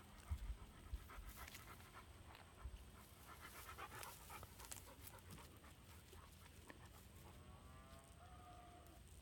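A dog panting quickly, with two thumps near the start and a short pitched call that wavers in pitch near the end.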